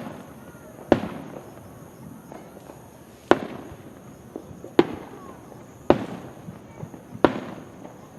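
Aerial firework shells bursting: five loud bangs at irregular intervals of one to two seconds, each trailing off over a second or so, with a few smaller pops in between.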